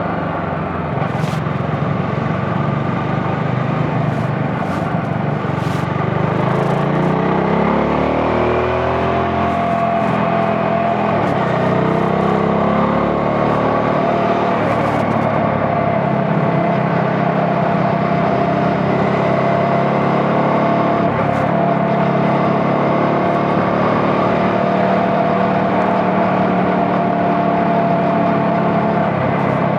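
CF Moto NK 250's single-cylinder engine running under way, rising in pitch as the bike accelerates, with a dip about a third of the way in where it shifts up, then holding a steady note at cruising speed.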